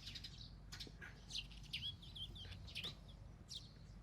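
A rapid series of short, faint, high chirps, each sliding down in pitch, from a small animal: a bird or the cat.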